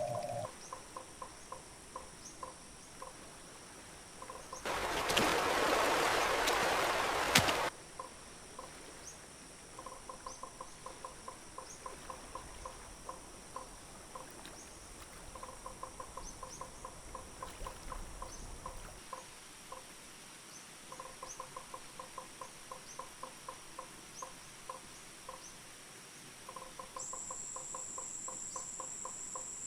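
Rainforest ambience: a steady high insect drone with recurring trains of chirping calls at about four a second. About five seconds in, a loud rushing noise lasts about three seconds and cuts off. Near the end a second, higher-pitched steady insect tone joins.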